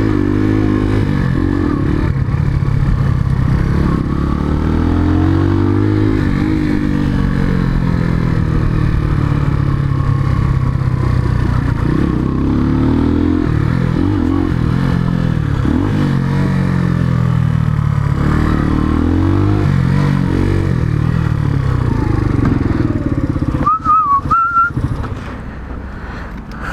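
Chinese 125cc motorcycle engine running on the road, its revs repeatedly rising and falling through the gears. Near the end it drops back to a quieter note, with a brief high squeal.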